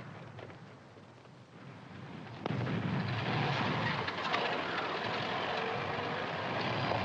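A low battle rumble, then about two and a half seconds in a military car's engine comes in suddenly and keeps running loudly as the car approaches.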